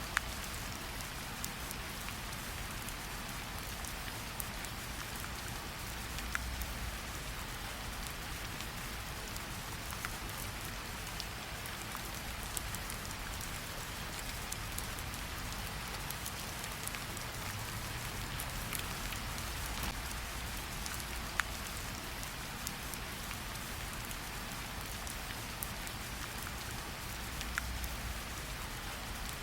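Steady rain falling, an even hiss with occasional single louder drops ticking through it.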